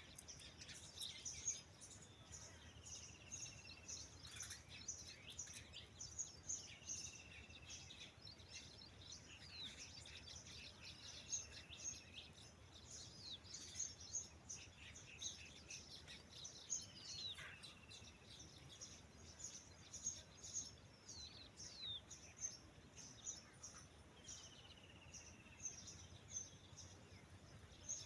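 Birds chirping and calling faintly, with many short high chirps and a short call repeated every few seconds.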